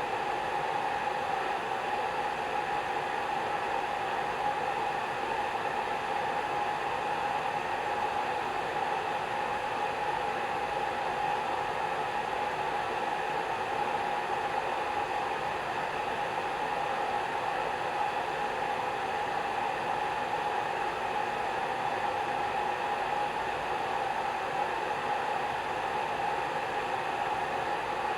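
Hair dryer running steadily: an even, unbroken blowing noise with a humming tone near the middle of the pitch range.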